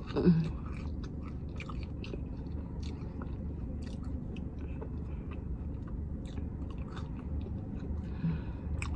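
Close mouth sounds of a person chewing fried chicken tenders: many small, scattered wet clicks of chewing. A short closed-mouth hum comes right at the start and another near the end.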